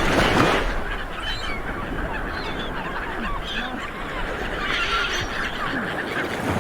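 A large flock of seabirds calling over one another, a dense chorus of short honking calls with no single bird standing out, a little louder in the first moment.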